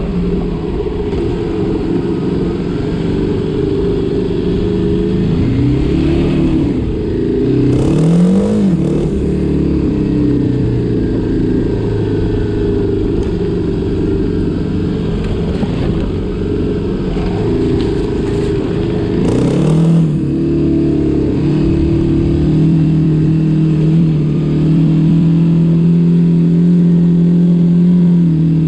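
Vehicle engine running under way, its pitch rising as it speeds up twice, about six to nine seconds in and again near twenty seconds, then holding steady toward the end. A couple of brief rushes of noise come with the speed-ups.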